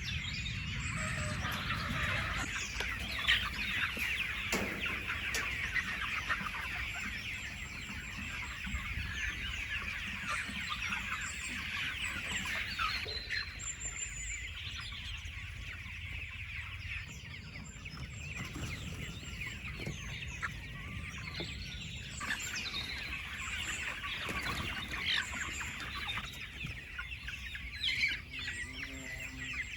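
A large flock of chickens clucking, with many overlapping calls throughout.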